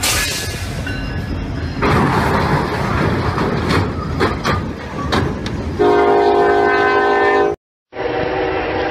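A freight train smashes into a semi-trailer at a level crossing: a loud rushing noise with a run of crunching impacts, then the locomotive's chord horn blaring from about six seconds in. After a brief break, a train horn sounds again.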